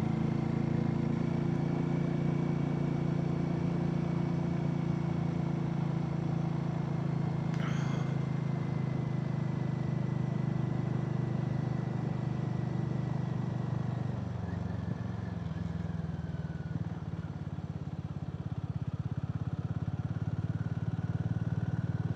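Harley-Davidson X440's single-cylinder engine running steadily under way, easing off about two-thirds through and building again near the end. A single short click about a third of the way in.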